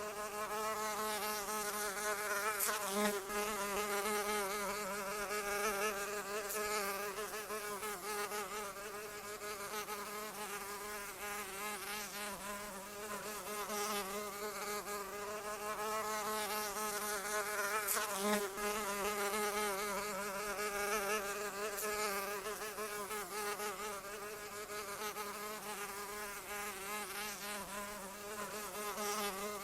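A fly buzzing without a break, its wingbeat hum wavering slightly up and down in pitch as it flies about.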